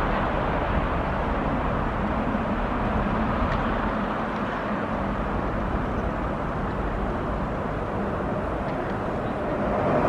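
Steady outdoor rumble of street traffic, growing louder near the end as a tram approaches.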